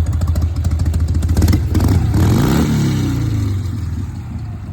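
1988 Harley-Davidson Softail's 1340 cc Evolution V-twin running at idle, blipped on the throttle about a second and a half in, then the revs fall back and the engine settles down. Freshly brought back to life after sitting for years.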